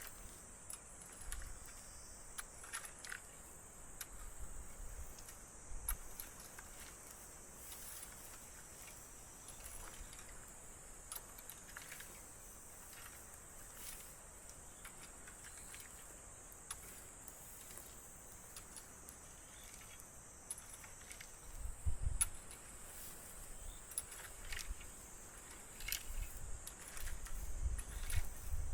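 Steady high-pitched insect chirring, with scattered light clicks and knocks over it and low rumbles of handling or wind in the last few seconds.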